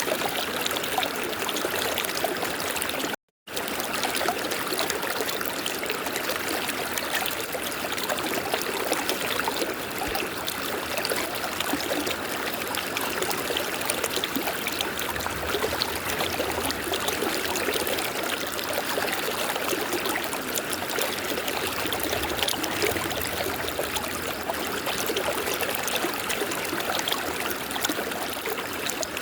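River water flowing in a steady rush. It cuts out completely for a split second about three seconds in.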